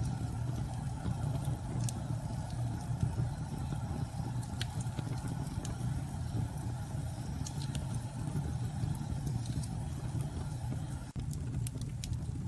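Steady low rumbling storm wind with scattered sharp crackles and pops of a wood fire. The sound cuts out for a moment near the end.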